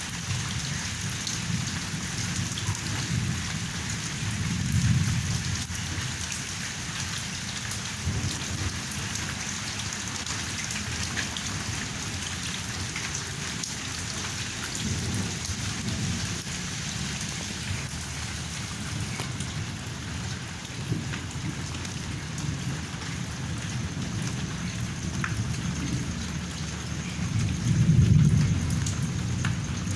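Steady rain falling during a thunderstorm, with thunder rumbling under it; two louder rolls of thunder swell up about five seconds in and again near the end.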